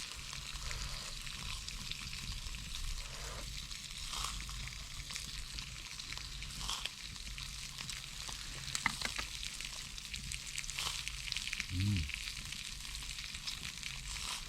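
Venison spare ribs sizzling over charcoal on a shichirin grill, a steady hiss with scattered small pops and crackles.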